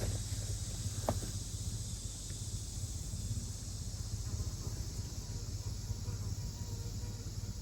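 Outdoor ambience: a steady high insect hiss over a low rumble, with a single sharp click about a second in.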